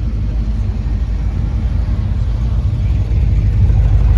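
Car engine and exhaust rumbling as a car drives past, with a low pulsing note that grows louder toward the end.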